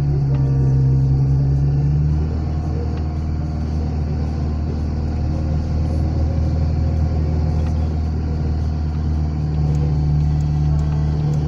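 Opel Frontera's engine running steadily at low revs, a continuous drone that eases slightly about two seconds in and picks up again near the end.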